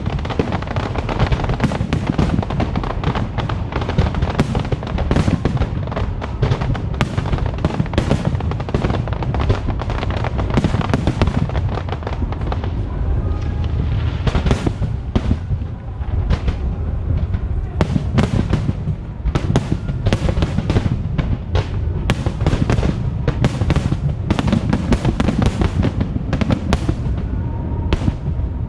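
Aerial fireworks going off in a rapid, continuous barrage: many sharp bangs over a steady low rumble, with music playing underneath.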